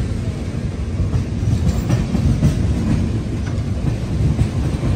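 Double-decker passenger train running at speed, heard from aboard: a steady low rumble of the train rolling over the tracks.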